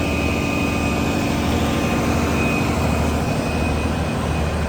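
Steady engine-like machine drone: a deep hum with a thin, high steady whine above it, unchanging throughout.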